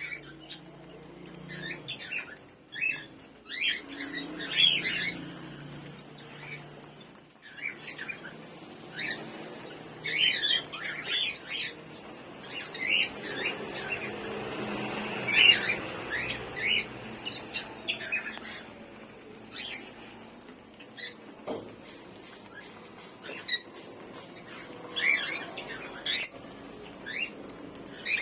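Cockatiels and African lovebirds chirping and squawking in many short, separate calls, with a few sharp clicks near the end.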